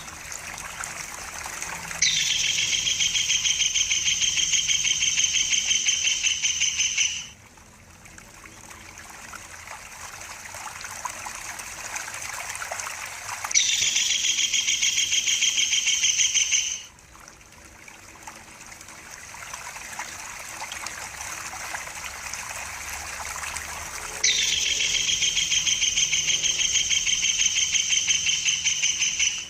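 Tengkek buto kingfisher calling in a rapid rattling trill, in three long bouts of about three to five seconds each that start and stop abruptly. A steady trickle of running water sounds underneath.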